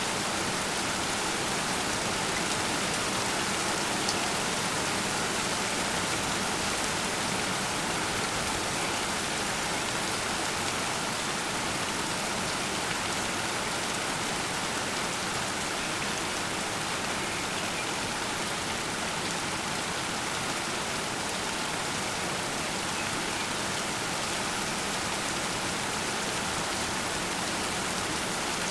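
Heavy rain falling steadily in a downpour during a thunderstorm, an even hiss of drops on surfaces.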